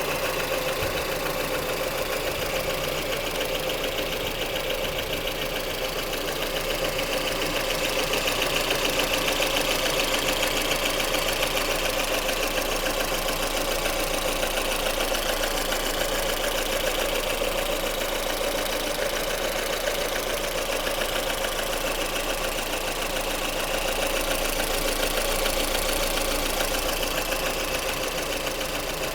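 Lada Kalina's 1.6-litre eight-valve engine running steadily at operating temperature, with a light tapping knock still audible through it. The owner is unsure whether the knock comes from the pistons or the camshaft.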